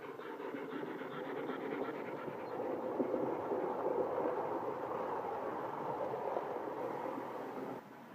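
Model train running on its track: the electric motor hum and the wheels clicking over the rail joints grow louder as it comes close, then drop off suddenly near the end.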